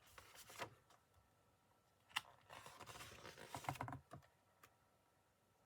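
Faint handling noise: a short rustle at the start, then a longer rustle with several soft clicks from about two to four seconds in.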